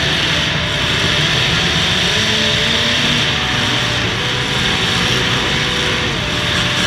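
Engines of several demolition derby cars running together, a loud, steady engine noise.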